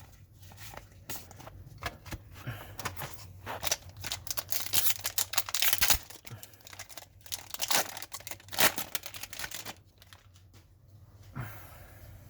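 A trading-card pack wrapper being torn open and crinkled, with cards scraping and rustling against each other in irregular bursts, busiest about four to six seconds in.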